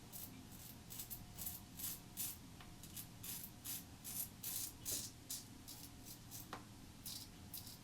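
Double-edge safety razor (Merkur 30C with a Gillette Silver Blue blade) scraping through lather and stubble on the upper lip in short, quick strokes, about three a second, with a brief pause near the end. This is an across-the-grain pass.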